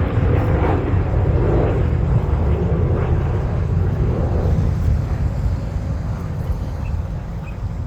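Aircraft engine drone as a plane flies over, a steady low rumble that eases off slightly toward the end.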